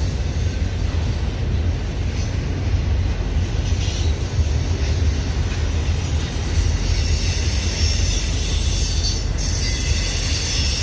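Union Pacific intermodal freight cars rolling past on the rails: a steady low rumble of wheels on track, with a high thin squeal of wheels coming up more strongly after about seven seconds.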